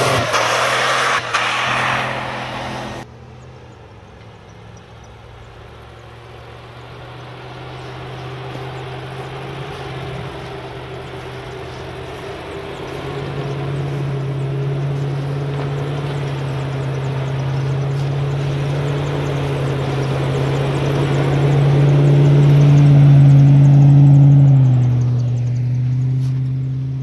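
Off-road 4x4 engine droning at a steady pitch, slowly getting louder, then dropping in pitch about 24 seconds in. Before it, a loud rushing noise cuts off abruptly about three seconds in.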